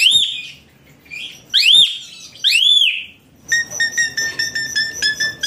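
A bird calling: several loud, high, arching chirps, then from about three and a half seconds a rapid run of short, even chirps, about six a second.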